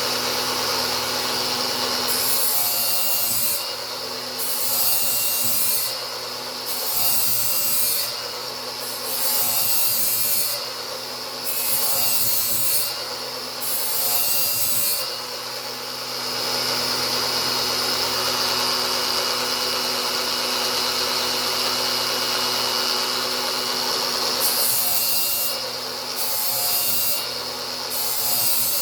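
Angle grinder running steadily while its disc grinds a new edge on a steel lawn mower blade. The grinding swells and eases in repeated passes about every two seconds, turns into one long unbroken grind through the middle, then goes back to passes near the end.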